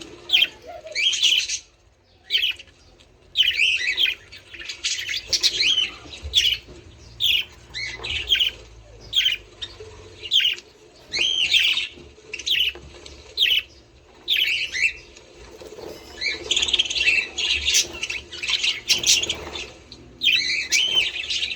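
Budgerigars chattering: a steady stream of short chirps and squawks in quick, irregular succession, thickening into a busy run of calls in the second half.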